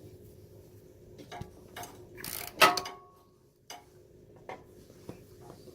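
Ratchet wrench clicking in short runs as the carburetor float bowl nut is loosened, with one sharper metallic clink about two and a half seconds in.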